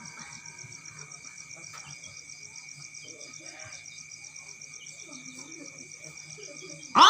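Faint steady chirring of insects, cricket-like, with a fine regular pulse. Right at the end a loud voice breaks in, gliding up into a long held note.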